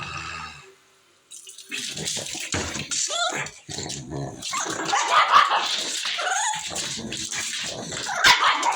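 Pet dog whining and vocalising, with rising and falling cries mixed with noisy grumbling. It starts about a second in and keeps going, a dog trying to tell its owner something.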